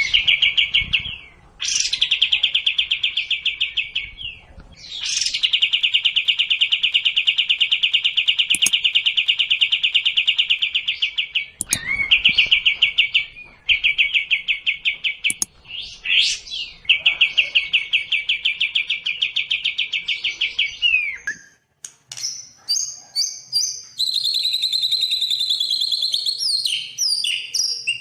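Songbird master recording of sekoci and white-rumped shama (murai batu) song. Long, rapid, buzzing trills repeat several times, the longest running about six seconds, broken by short rising notes. Varied higher chirps and whistles follow near the end.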